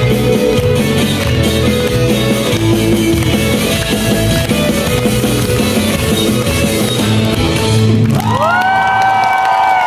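Live rock band playing the instrumental close of the song, with steady bass and drums; about eight seconds in the band stops and a few high held tones slide up and sustain.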